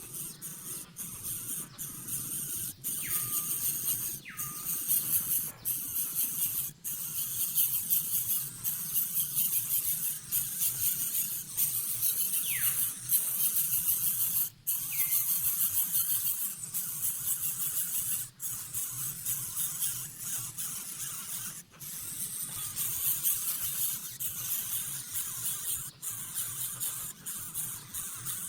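Birds at a nest: a steady high hiss, typical of nestlings' hissing begging calls, with a few short chirps falling in pitch.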